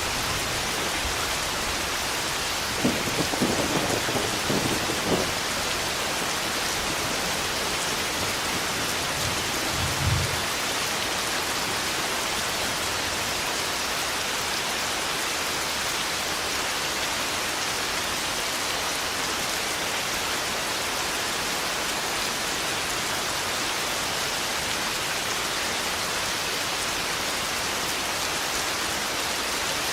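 Steady heavy rain in a thunderstorm, with thunder: a crackling rumble about three seconds in and a short low rumble about ten seconds in.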